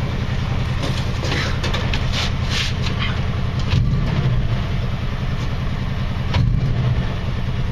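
AMC 304 two-barrel V8 of a 1979 Jeep CJ5 idling through aftermarket dual exhaust, just taken off the choke after a cold start. Its level swells briefly twice, about four seconds in and again near the end.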